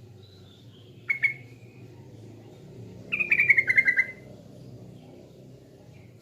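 Yellow-vented bulbul (trucukan) singing: a short sharp call about a second in, then a quick run of about ten bubbling notes sliding down in pitch for about a second. A faint low hum runs underneath.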